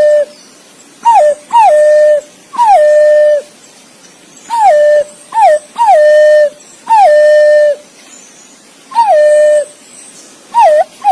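Green pigeon (punai) calling: a series of about ten clear whistled notes, each sliding down and then holding a flat tone for up to a second, some quick pairs and some single, with short pauses between.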